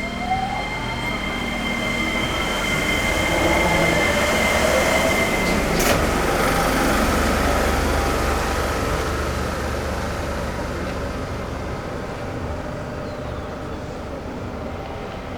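Seibu 8500 series Leo Liner accelerating, its Hitachi IGBT-VVVF inverter whining in a rising pitch over steady high tones. The running noise swells to a peak mid-way with a single click, then fades as the train moves off.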